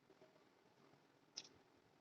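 Near silence, with one faint sharp click a little over a second in.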